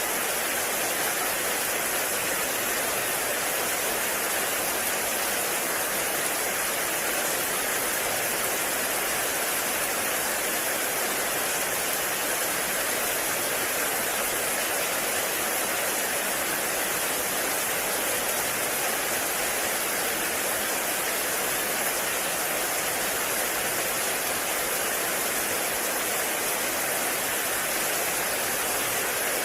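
Heavy rain falling steadily in a forest, a dense even hiss with no separate drops or thunder standing out.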